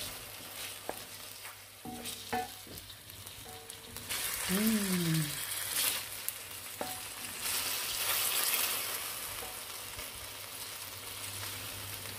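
Chicken pieces and green beans sizzling in sweet soy and oyster sauce in a metal wok, stirred with a wooden spatula that knocks and scrapes the pan now and then. A short pitched sound rises and falls about five seconds in.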